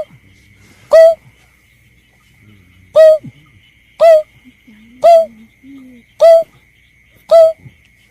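Bird lure recording of a belkek (berkik) call: short, hoarse, hooked single notes repeated about once a second, seven in all, with one longer pause after the second note. A faint steady high whine runs underneath.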